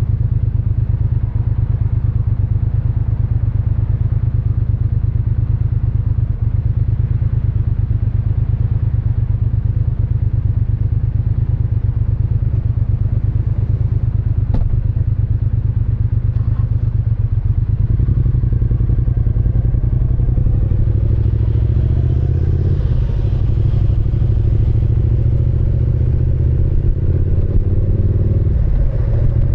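Triumph Speed Twin 900's parallel-twin engine and exhaust running steadily at low revs. From about eighteen seconds in, the engine note shifts and grows busier as the revs change. There is a single click near the middle.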